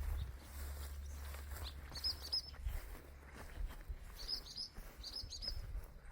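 Barn swallows twittering in three short bursts of high chirps.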